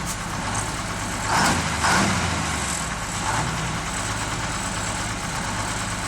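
Dump truck engine idling steadily, with two brief louder noises about a second and a half and two seconds in.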